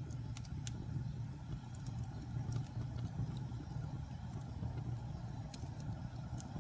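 Campfire of burning logs: a steady low rumble of flame with sharp crackles and pops at irregular moments, about a dozen of them.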